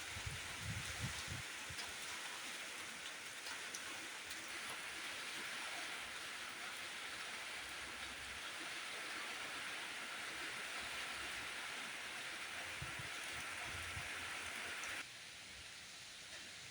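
Steady rain falling, an even hiss with a few low bumps in the first couple of seconds; the hiss drops away suddenly near the end.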